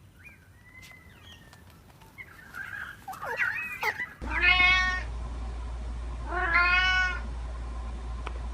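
Faint high chirps and whistles, then after an abrupt cut about four seconds in, a cat meowing twice, two long calls about two seconds apart.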